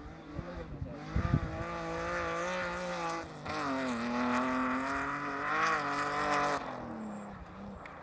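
Alfa Romeo 156's engine revving hard under acceleration, its pitch wavering, with a brief dip about three seconds in before it climbs higher again. It then drops in pitch and fades as the car moves away near the end. There is a brief low thump about a second in.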